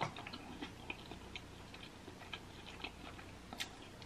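A person chewing a mouthful of sauce-soaked boiled egg with the mouth closed: faint, soft wet mouth clicks, with a sharper lip smack near the end.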